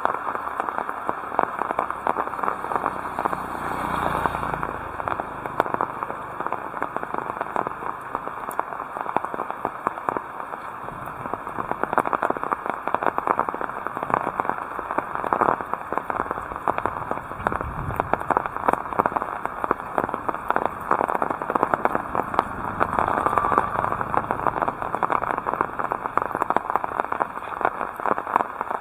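Heavy rain falling, a loud continuous spatter of densely packed drop impacts. Brief low rumbles come about four seconds in and again near eighteen seconds.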